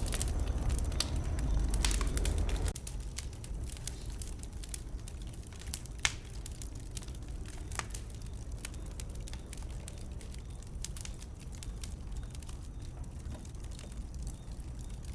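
Wood burning in a bonfire, crackling with scattered sharp pops, one louder pop about six seconds in. A low rumble under the crackling cuts off about three seconds in.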